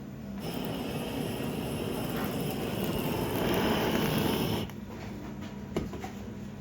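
Handheld kitchen gas torch burning with a steady hiss for about four seconds, growing a little louder, then shut off suddenly: flame-searing nodoguro fish. A single short click follows about a second later.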